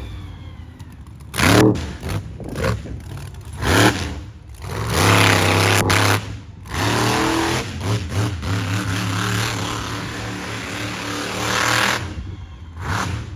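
Monster truck engine revving hard in repeated surges, then holding a steadier run before easing off near the end.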